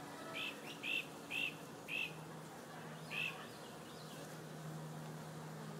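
A small bird chirping about five short, high notes over the first three seconds or so, over a faint steady buzz of honeybees around the trap-out cone.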